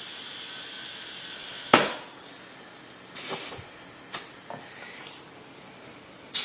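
Air hissing at a truck tire's valve stem while the pressure is checked with a tire gauge. A steady hiss is cut off by a sharp click, followed by short hisses and a few lighter clicks as the gauge is pressed on and taken off.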